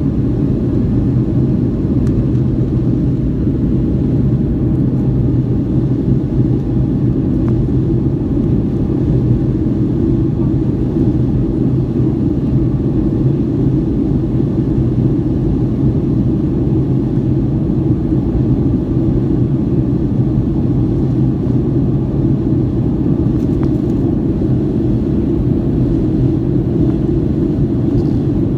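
Boeing 757-200 cabin noise during the climb: its Rolls-Royce RB211 turbofan engines and the airflow make a steady, loud rumble with a low hum, unchanging throughout.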